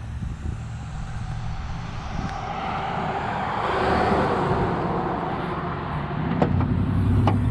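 A passing vehicle on a road, its noise swelling and fading over a few seconds, then a steady low engine rumble starting near the end.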